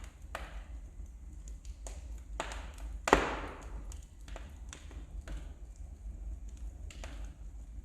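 Wood fire crackling in a fireplace: irregular sharp snaps and pops over a low steady rumble, with one louder pop about three seconds in.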